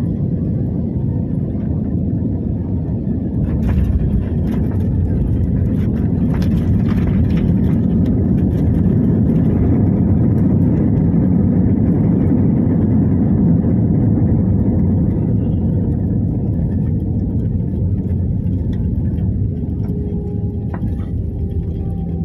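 Airliner cabin noise during landing: a loud, steady low rumble with a cluster of rattling knocks a few seconds in, swelling in the middle and then easing off, with faint steady engine tones showing near the end.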